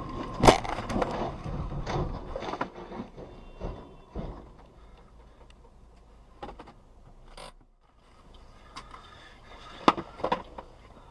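Car collision picked up by a dashcam: a sharp bang about half a second in, followed by a couple of seconds of clattering and knocks, then another cluster of sharp knocks near the end.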